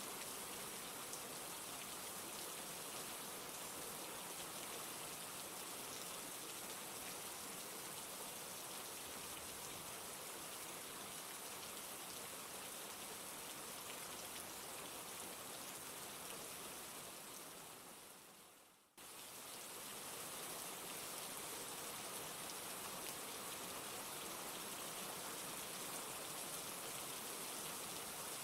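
Steady rain falling, an even hiss of many drops. A little past halfway it fades away over a few seconds, then cuts straight back in.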